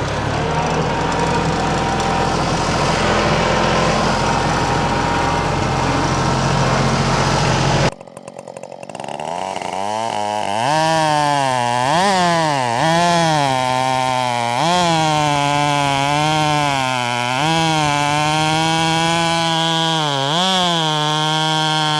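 Husqvarna 572 XP two-stroke chainsaw cutting firewood from a large pecan log. The sound breaks off abruptly about eight seconds in. When it returns, the saw's pitch dips and rises again and again as the bar loads and eases in the cut.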